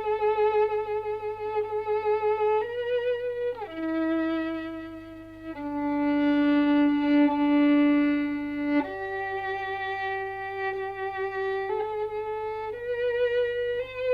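Music: a slow solo melody on a bowed string instrument, long held notes with vibrato, dipping to its lowest, longest note in the middle before climbing again.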